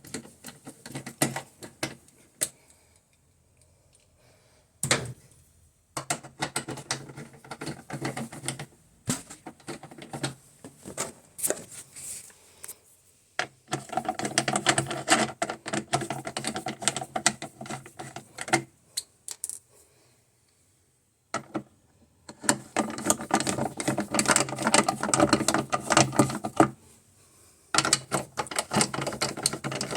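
Rapid clicking and rattling of hard parts, in bursts of several seconds with short quiet gaps between them.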